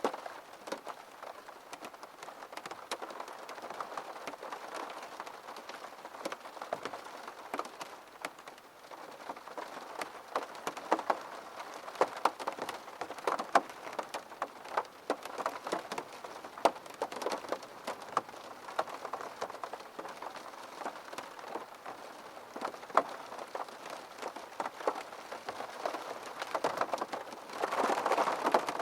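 Rain striking a window pane: a steady patter of drops with many distinct sharp drop ticks, swelling louder briefly near the end.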